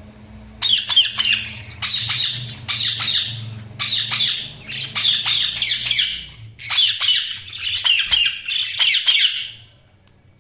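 Budgerigars chirping and chattering in quick, repeated bursts of short high calls that stop about a second before the end.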